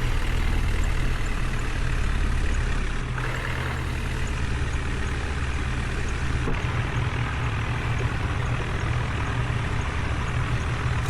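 Heavy diesel engine of a tractor or JCB running steadily with a low drone.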